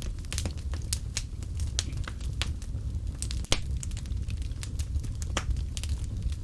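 Wood fire crackling in a fireplace: frequent sharp pops and snaps over a steady low rumble of the flames, with one louder pop about halfway through.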